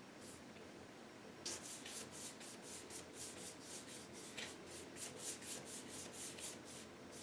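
Paintbrush scrubbing acrylic paint onto the painting in quick short strokes, about three or four a second, starting about a second and a half in.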